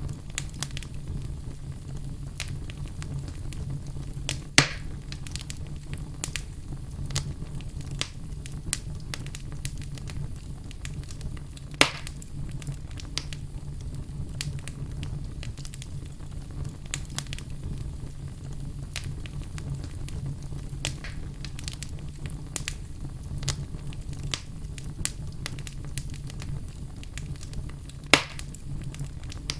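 Wood fire burning in a fireplace, crackling steadily over a low rumble, with three louder sharp pops spread through it.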